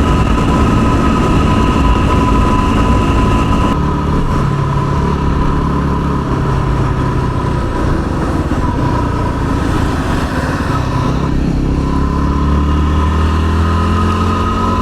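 Yamaha WR250R's single-cylinder four-stroke engine running while riding on the road, over a steady rush of wind noise. The engine note shifts about four seconds in, dips around ten to eleven seconds, and rises in pitch near the end.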